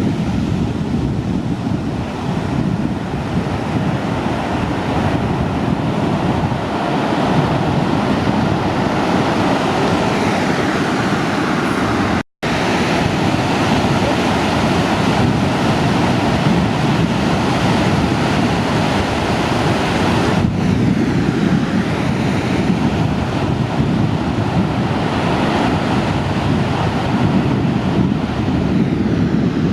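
Ocean surf breaking and rushing continuously, with wind buffeting the microphone. The sound drops out completely for an instant about twelve seconds in.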